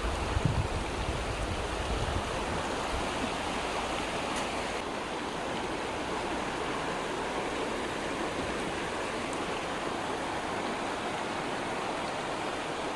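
Water of a mountain stream rushing steadily, with wind buffeting the microphone in the first second or so.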